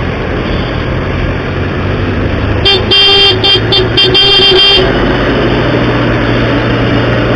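A vehicle horn honks in a few short blasts and then one longer one, about three seconds in. It sounds over steady road and engine noise.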